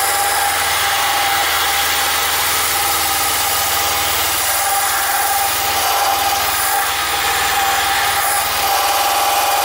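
Electric drill running steadily at speed with an abrasive attachment working the metal of a motorcycle fuel tank: a constant high whine over a loud, even grinding hiss.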